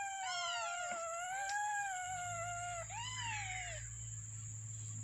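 Three-day-old kittens mewing in high, thin cries: one long, wavering mew, then a shorter one about three seconds in.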